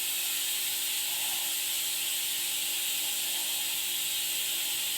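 Steady hiss with a faint hum and no distinct sounds: the recording's background noise.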